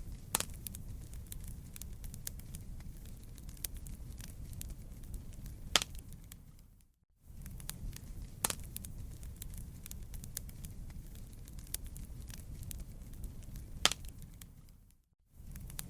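Burning wood campfire crackling: a steady low rumble of flames with scattered sharp pops and snaps, two of them standing out clearly. Twice the sound cuts out for a moment and then resumes.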